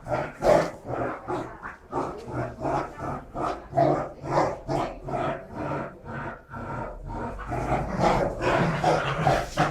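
A Great Dane and a Labrador growling in play as they tussle over a toy, a steady run of short, rough growls.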